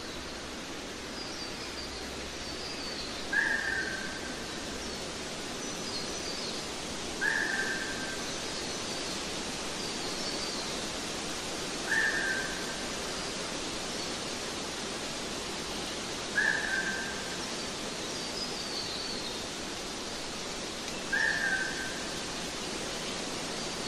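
Background nature sounds: a bird gives a short whistled note five times, about every four to five seconds, over a steady rushing hiss, with fainter higher chirps from other birds.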